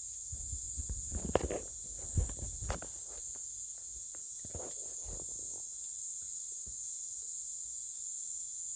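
Steady high-pitched chorus of night insects such as crickets, with scattered rustling and a few sharp knocks in the first few seconds and again about five seconds in.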